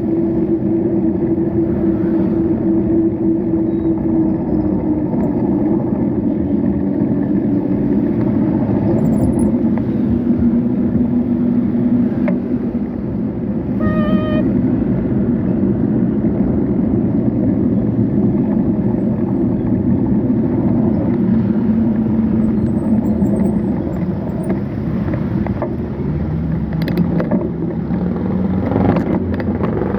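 Road traffic: motor vehicle engines running and tyres on the road in a steady rumble, with engine pitches drifting up and down. A short beep sounds about halfway through.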